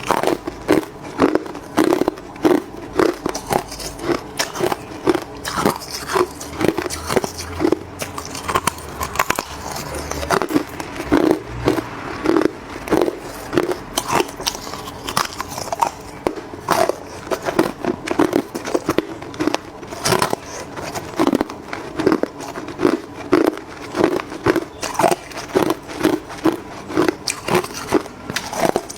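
Hard clear ice being bitten and chewed close to the microphone: a steady run of sharp, crackling crunches, several a second.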